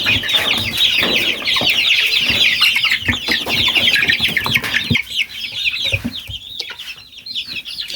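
A flock of young chickens peeping continuously, many high calls overlapping, with a few knocks among them. The peeping thins out about five seconds in.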